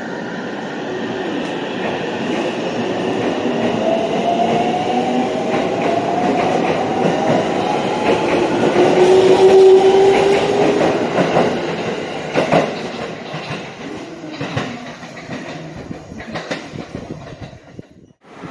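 Train moving along the platform: a rumble with gliding mechanical tones grows to its loudest about halfway, then fades while the wheels click over rail joints. The sound cuts off abruptly near the end.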